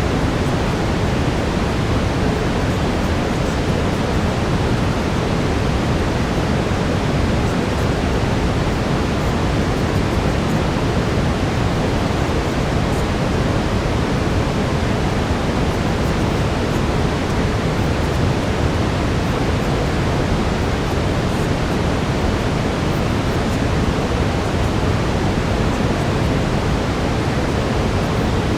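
Brown noise: a steady, even rush, heaviest in the low end, that does not change.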